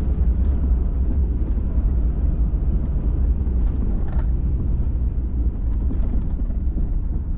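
Steady low rumble of a pickup truck driving on a dirt trail, heard from inside the cab: engine and tyre noise, with a couple of faint knocks in the second half.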